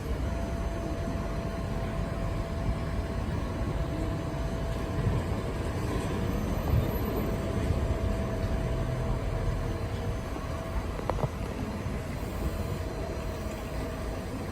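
Lisbon Tram 28 electric streetcar running: a steady low rumble of wheels on the rails with a thin, steady whine over it, and a single click about eleven seconds in.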